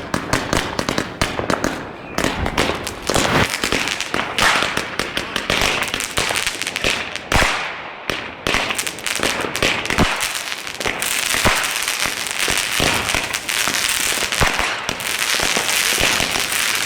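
Fireworks going off: a rapid, irregular string of sharp bangs and pops. From about eleven seconds in they become a dense, near-continuous crackling.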